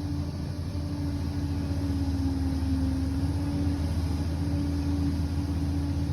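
Liebherr 746 crawler bulldozer's diesel engine running steadily, a low rumble with a constant whine over it that grows slightly louder around the middle.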